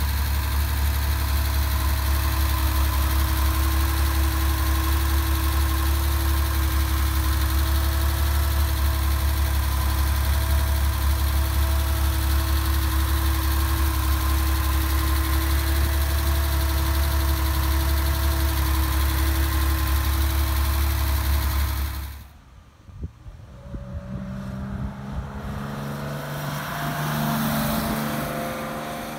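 1966 Porsche 911's air-cooled 2.0-litre flat-six idling steadily, heard close at the open engine bay. About 22 seconds in the sound cuts to the car heard from farther off as it pulls away, its engine note swelling briefly and then easing.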